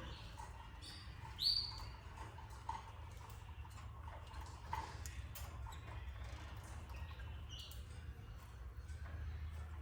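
Canaries in their nest cage giving short chirps and cheeps, one sharper, louder chirp about a second and a half in, with faint scattered clicks over a steady low hum.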